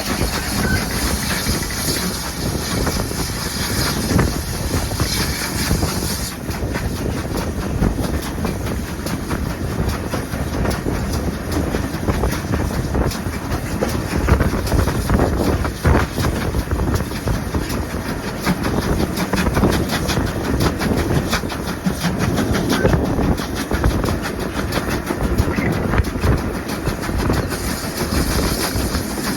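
Train running along the track, a steady rumble with the wheels clicking over rail joints.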